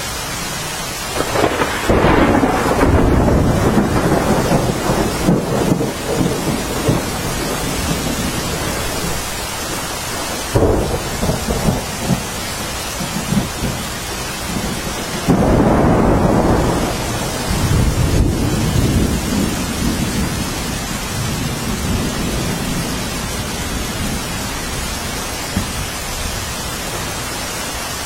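Steady rainfall with thunder rolling several times: a long rumble starting about a second in, a shorter crack and rumble near the middle, and another long roll that fades away well before the end.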